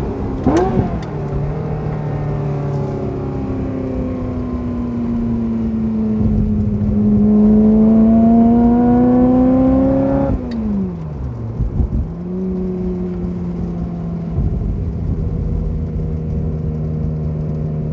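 Ferrari F355's V8 running through a Kreissieg exhaust. There is a quick rev blip about half a second in, then a steady cruise. The engine pulls up through the revs for several seconds, drops sharply as the throttle is lifted about ten seconds in, and settles back to a steady cruise.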